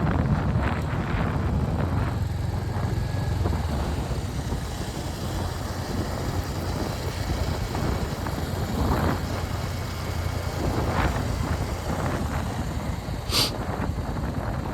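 Royal Enfield Hunter 350's single-cylinder engine ticking over in neutral as the motorcycle coasts downhill, under steady tyre and wind noise. A brief high hiss comes near the end.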